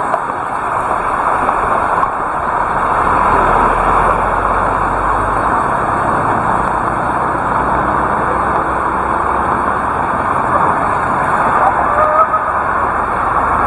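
Heavy rain pouring down steadily, a dense even hiss, with a low rumble swelling a few seconds in.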